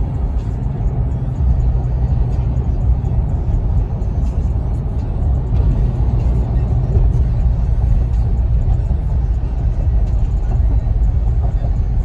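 Steady low rumble of a vehicle driving, heard from inside the cabin, with music playing over it.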